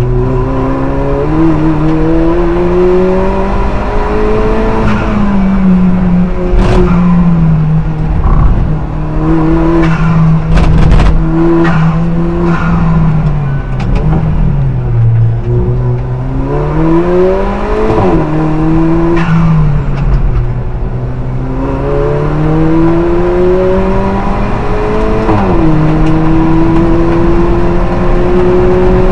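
Alfa Romeo 4C race car's turbocharged four-cylinder engine heard from inside the cabin at racing speed, its pitch climbing under throttle and dropping suddenly at each upshift, several times over. It sags briefly about halfway through, then climbs steadily near the end. A cluster of sharp knocks comes about a third of the way in.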